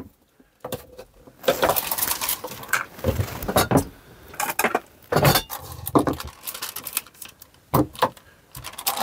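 Irregular clinks, clatters and rustles of cutlery and dishes being handled.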